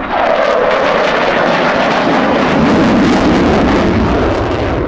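F-35A Lightning II fighter's single F135 turbofan, loud jet noise that comes in suddenly. Its pitch falls steadily over about three seconds as the jet passes.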